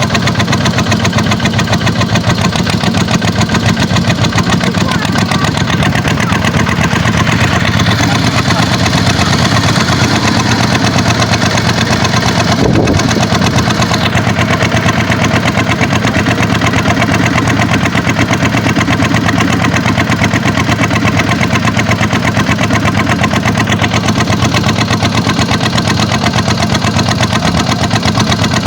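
Kubota tractor's diesel engine running steadily at an even speed, with a short thump about thirteen seconds in.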